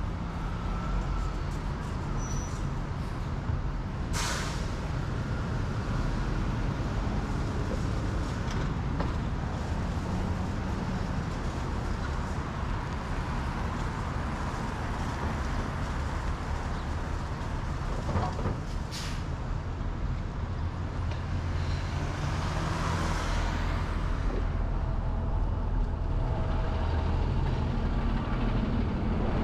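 City road traffic heard from a moving bicycle: a steady low rumble of engines and tyres, with two short sharp hisses about 4 and 19 seconds in and a vehicle swelling past near the end.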